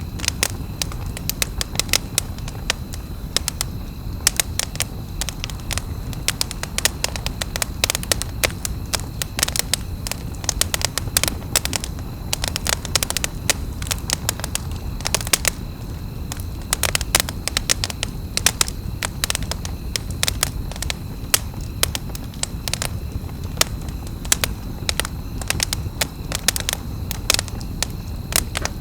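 Wood campfire crackling, with frequent irregular snaps and pops over a steady low rumble of the burning fire.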